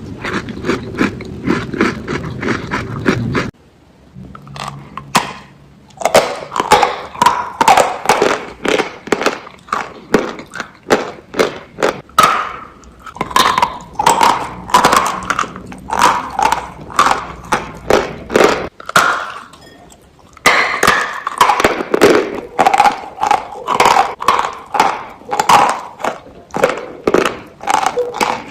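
Close-miked crunching and chewing of crisp biscuits with cream, about two crunches a second, with brief pauses a few seconds in and again about two-thirds of the way through.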